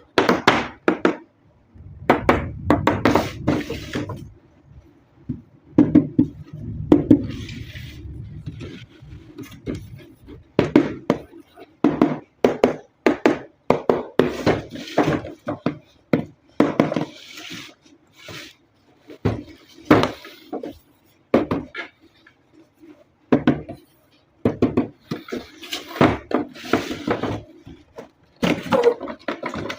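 Packaging being handled and opened by hand: a run of irregular knocks, taps and rustles, with a low rumble twice in the first third.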